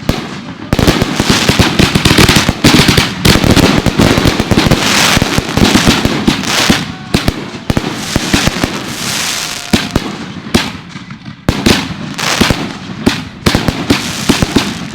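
Consumer fireworks going off in a dense barrage: cakes and mortars firing rapid, overlapping shots and crackling bursts. There is a brief lull about ten and a half seconds in, then the barrage resumes.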